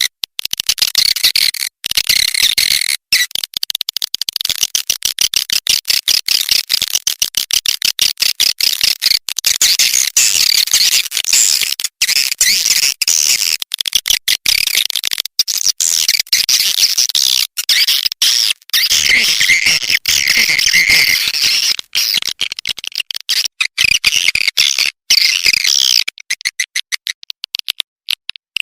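Recorded swiftlet calls: dense, rapid, high-pitched twittering chirps, a lure call for drawing swiftlets into a nest house.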